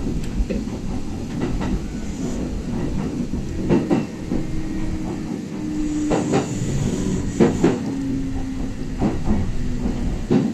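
Kintetsu express train running slowly, its wheels clicking over rail joints singly or in pairs every one to three seconds over a steady running rumble. A faint whine holds for a few seconds in the middle.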